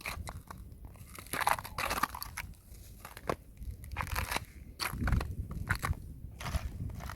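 Thin fresh ice crunching and crackling in irregular bursts as it is pressed and broken, with a heavier low crunch about five seconds in.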